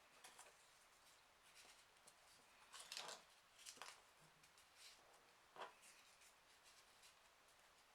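Faint rustling and crinkling of folded printer-paper 3D origami pieces being handled and pushed onto the model, with a few soft crackles, the loudest about three seconds in.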